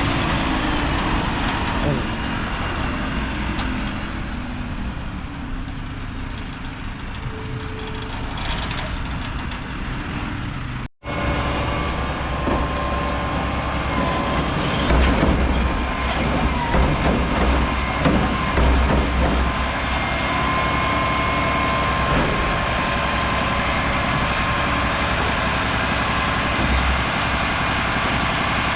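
Mack LR garbage truck running, its engine noise steady, with a louder stretch a few seconds after a momentary dropout in the sound about eleven seconds in.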